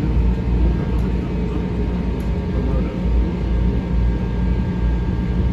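Steady low rumble of a Metro-North M7 electric commuter train heard from inside the car, with a faint steady whine above it.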